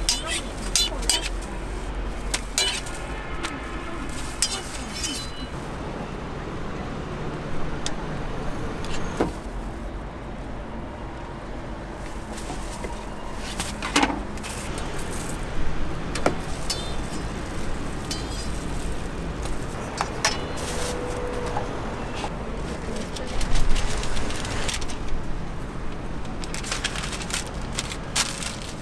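Clinks, taps and scrapes of metal utensils at a street crepe stall, scattered throughout over a steady street background of traffic and distant voices.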